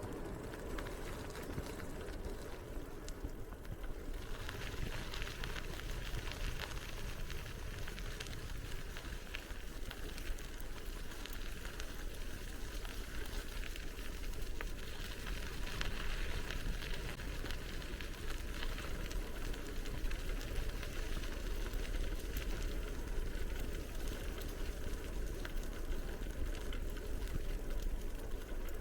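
Bicycle riding noise: tyres rolling with a steady crackle, over a low rumble of wind on the microphone.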